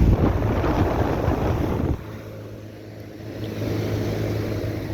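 A Trane XB10 central air conditioner's outdoor condensing unit running just after starting up: a steady low compressor hum under the air noise of its condenser fan. The noise is loud for about two seconds, drops off suddenly, then swells again about a second later.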